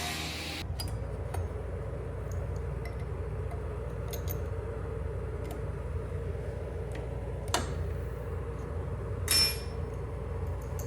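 Steady low workshop hum with scattered light clicks and clinks as tools and work pieces are handled, a sharper knock about seven and a half seconds in, and a short scrape a little after nine seconds.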